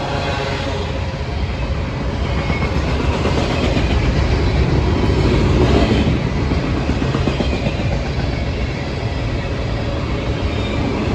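A train rolling past, with steady wheel-on-rail noise that swells to its loudest about halfway through and then eases.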